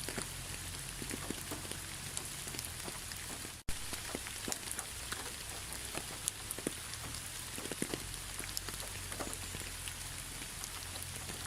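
Steady rain, with many separate drops ticking close by. It cuts out for an instant a little under four seconds in, then carries on unchanged.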